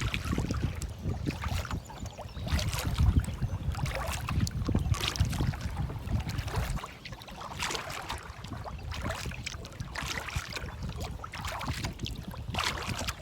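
Canoe paddle strokes splashing and dripping in river water, roughly one every second or so. Wind buffets the microphone with a low rumble for about the first half, then eases off.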